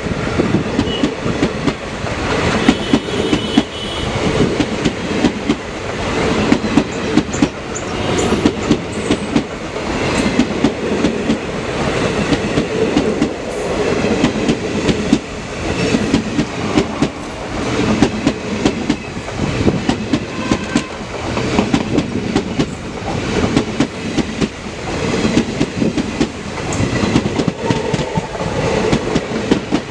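Indian Railways passenger coaches rolling past at speed, their wheels clattering rhythmically over the rail joints. The clatter swells about every two seconds as each coach's wheels go by.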